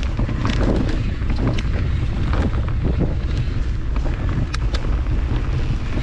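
Wind buffeting the microphone of a mountain bike rider's camera during a trail descent, a loud steady rumble. Many short clicks and knocks from the bike and tyres over the rough trail run throughout.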